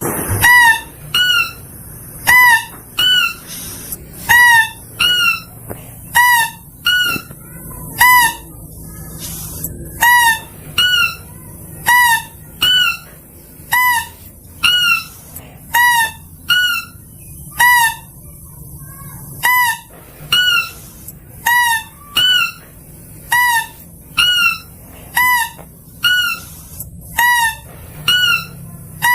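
Mouse-deer (kancil) calling: short, high, hooked call notes repeated a little more than once a second, with a few brief irregular pauses.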